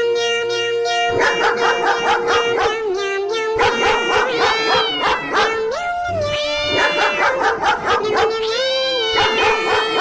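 A dog barking and yelping in quick runs, with a few howls that rise and fall in pitch, over background music with a long held note.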